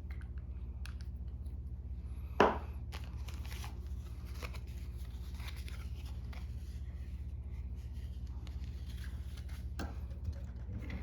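Faint rustling and small clicks of hands working chenille and thread on a jig in a tying vise, with one sharp knock about two seconds in, over a steady electrical hum.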